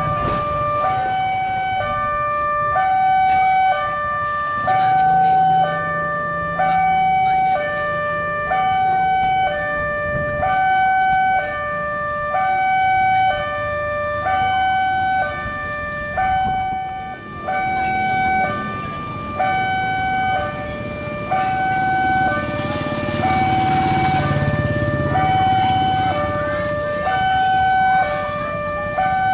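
Railway level-crossing warning alarm sounding: two electronic tones, low and high, alternating about once a second without a break. A low engine rumble rises and falls underneath.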